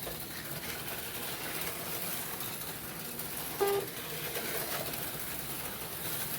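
A short electronic beep, a low pitched tone, sounds once about three and a half seconds in from the slot car race timing system, over a steady background whir.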